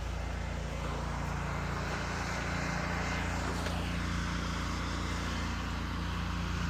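Pressure-washing rig running steadily: a constant engine hum with a hiss of spray from the wand.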